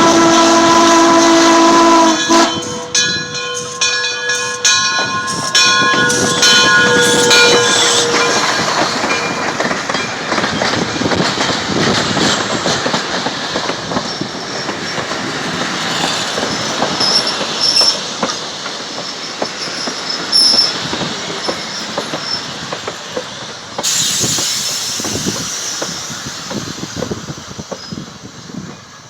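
Frisco 1630, a steam locomotive, blows a loud chime whistle that cuts off about two seconds in. A metallic ringing with regular strikes follows for several seconds. Then the coach train rolls past with the wheels clacking over the rail joints, slowly fading, and a hiss starts near the end.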